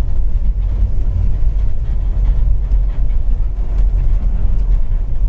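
Safari vehicle driving along a forest track: a steady, loud low rumble with faint rattling.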